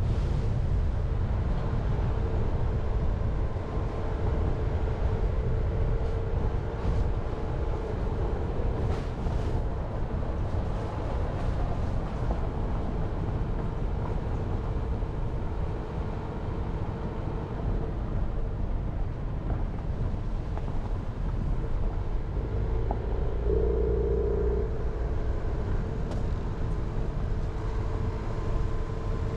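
Jeep Renegade driving on a mountain road: steady engine and tyre rumble, with a short louder hum about three quarters of the way through.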